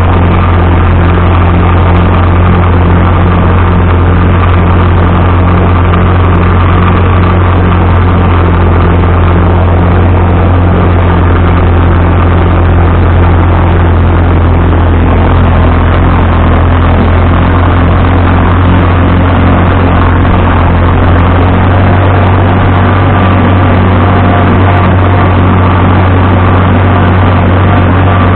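Vintage tractor engine running steadily under load, a loud, continuous low hum.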